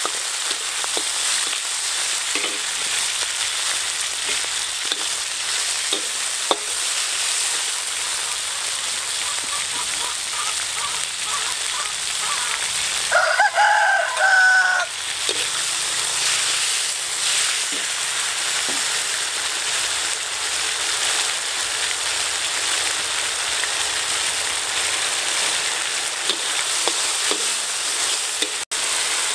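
Sliced beef and garlic sizzling as they are stir-fried in a hot wok, the metal spatula clicking and scraping against the pan. A rooster crows once near the middle.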